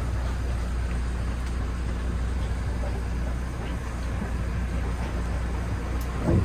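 Boat engine running with a steady low drone under water and hull noise, with a brief thump near the end.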